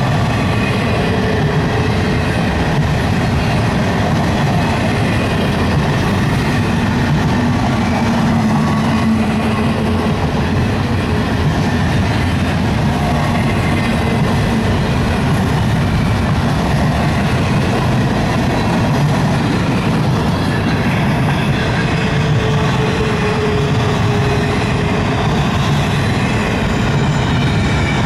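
Double-stack container well cars of a freight train rolling steadily past, a continuous loud noise of steel wheels running on the rails.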